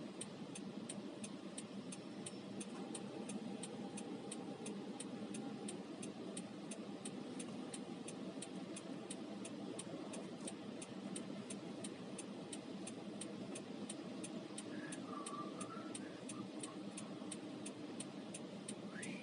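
Car running in traffic, heard from inside the cabin as a steady low rumble of engine and road noise. Over it is a regular light ticking at about three ticks a second.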